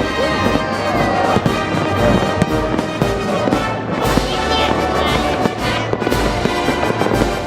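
Fireworks salute shells bursting in rapid succession, several bangs a second, with orchestral music with brass playing over them.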